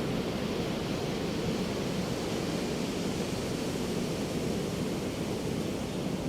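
Ocean surf washing continuously on a beach, a steady low rush of breaking waves with no separate crashes standing out.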